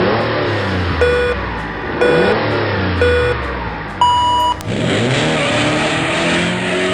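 Race-start countdown sound effect: three short beeps a second apart, then a higher, longer "go" beep, followed by a race car engine revving up and speeding away.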